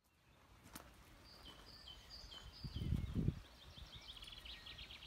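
A small songbird singing outdoors: a run of short repeated high notes that quickens into a rapid trill near the end. A brief low rumble on the microphone about halfway through.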